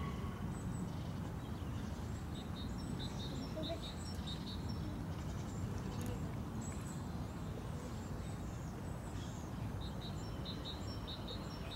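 Steady low outdoor background rumble, with a small bird calling in runs of short high chirps, about three a second, a few seconds in and again near the end.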